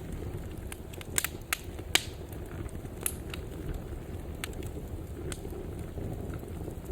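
Fire in a fireplace burning with a steady low rumble and scattered sharp crackles and pops. The loudest pops come about a second in and at two seconds.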